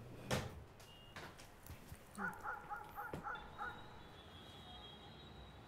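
A single sharp click, then a quick run of about six short bird calls, faint.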